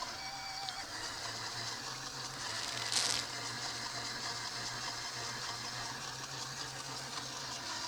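Small electric motor of a LEGO RC boat running steadily as a low hum over a wash of water noise, with a brief louder rush of noise about three seconds in.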